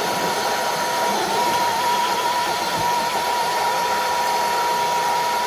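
Electric motor and gearing of a Redcat RC crawler truck whining steadily while it pulls a weighted sled, the pitch dipping briefly about a second in.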